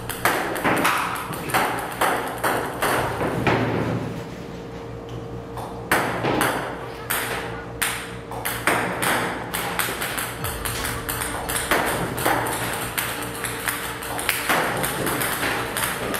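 Table tennis balls shot from a ball robot, clicking sharply as they bounce on the table about twice a second, over a steady low hum.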